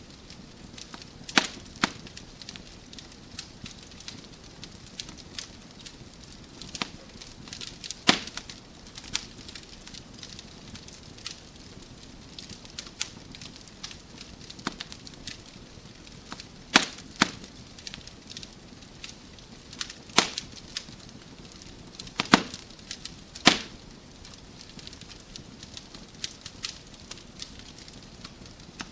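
Wood fire in a fireplace crackling: irregular sharp pops and snaps from burning logs over a soft hiss, with a handful of louder cracks scattered through.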